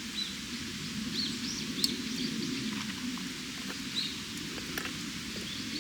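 Small birds chirping: a few short, scattered calls over a steady low rumble of outdoor background noise.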